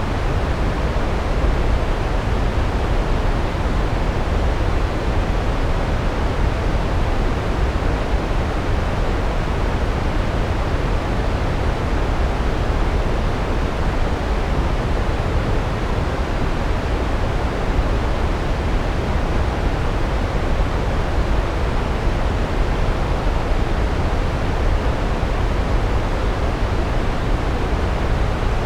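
Large waterfall: a steady, loud rush of falling water, heaviest in the low end, with no change.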